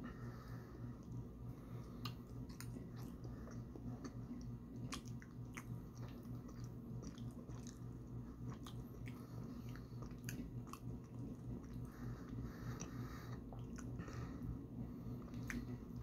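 A person chewing taro fudge close to the microphone: irregular wet mouth clicks and smacks. A steady low hum sits underneath.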